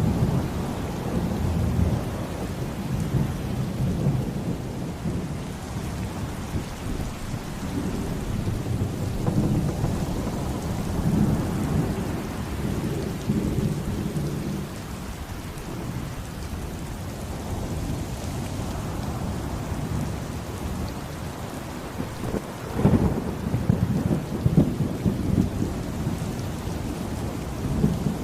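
Heavy rain with low rolling thunder rumbling throughout. About three-quarters of the way through, a sharper thunderclap breaks in, followed by a few seconds of louder rumbles.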